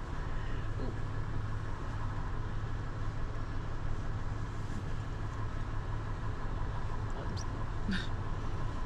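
Steady low hum of an idling vehicle engine, with a couple of short clicks near the end.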